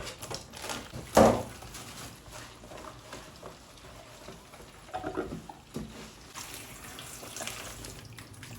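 Tap water running into a kitchen sink while raw meat is washed by hand, with a sharp knock about a second in and smaller handling noises after.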